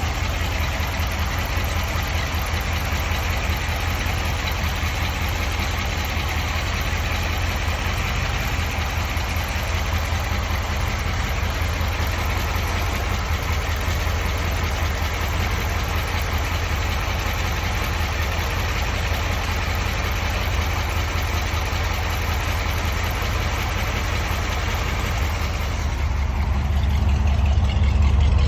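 1957 Ford Thunderbird's V8 engine idling steadily, growing louder and deeper over the last couple of seconds.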